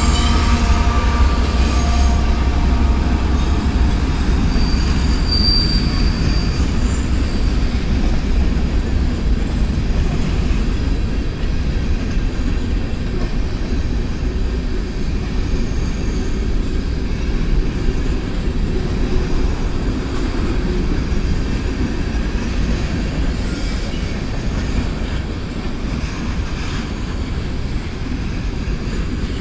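Freight train of covered hopper cars rolling past at steady speed: a continuous heavy rumble of steel wheels on rail. The trailing diesel locomotive's engine tones fade out over the first few seconds, and there is a brief high wheel squeal about five seconds in.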